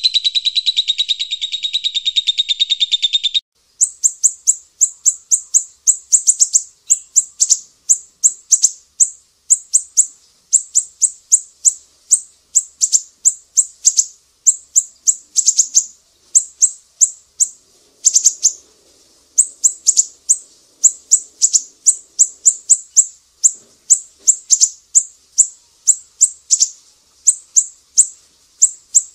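Songbird tutor recording layering cililin, lovebird and siri-siri calls: a dense high trill that cuts off suddenly about three seconds in, then a long run of sharp, high chirps in quick clusters.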